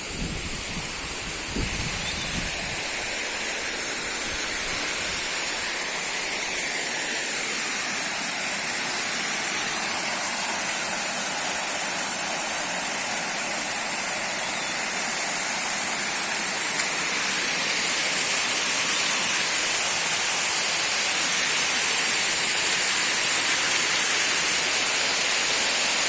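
Water of a small waterfall pouring and splashing in a steady rushing hiss, growing a little louder about two-thirds of the way through. A few low knocks near the start.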